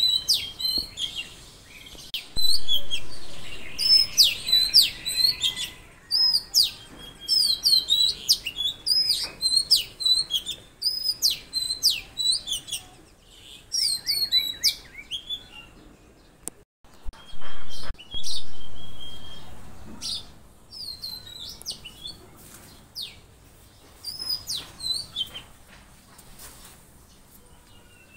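Songbirds chirping: many short, high calls with quick falling sweeps, repeated in rapid runs and pausing briefly now and then.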